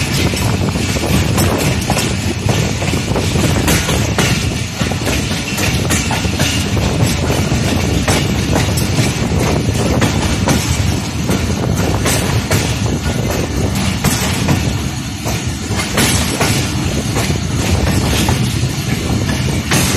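Passenger train coaches running on the track, heard from the side of the moving train: a steady rumble with irregular clacks of wheels over rail joints.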